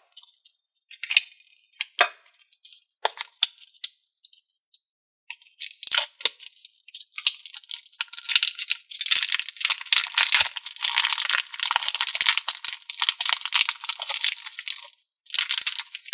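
A putty tin and its packaging being handled: a few separate clicks and taps, then about ten seconds of dense crackling and rattling that stops shortly before the end.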